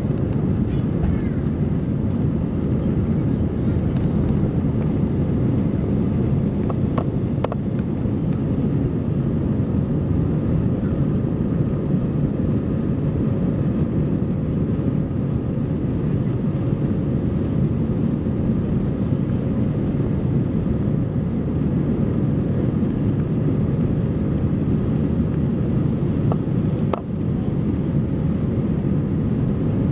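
Airbus A320 jet engines running steadily: a loud, even low rumble with a faint steady hum above it and a few light clicks.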